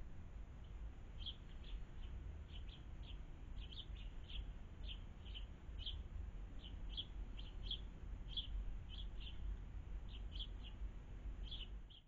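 A small bird's short, high chirps, repeated irregularly about two or three times a second, over a steady low rumble.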